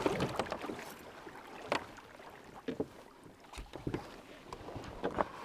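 Water splashing and lapping around a Hobie Adventure Island kayak as it goes in, with a few separate knocks against the hull.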